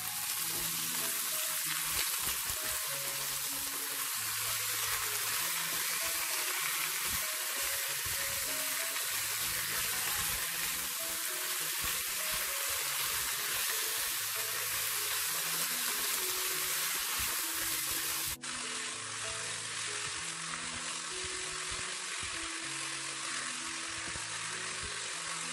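Sliced beef and leek sizzling in hot oil in a nonstick pan as they are stir-fried, a steady frying hiss, with soft background music. The sound dips for a moment about two-thirds of the way through, then the sizzling goes on.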